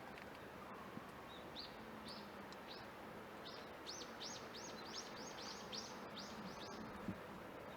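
A bird calling at the feeder: a few scattered high chirps, then a quick run of repeated chirps at about three or four a second, over a faint steady hum, with a soft knock near the end.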